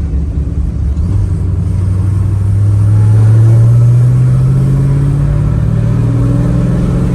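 Car engine under sustained hard acceleration: a loud, deep drone rising slowly in pitch, loudest around the middle.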